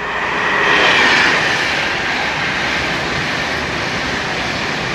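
Virgin Trains express passing through the station at speed: a loud rush of wheel and air noise that swells to a peak about a second in, then holds steady as the carriages go by.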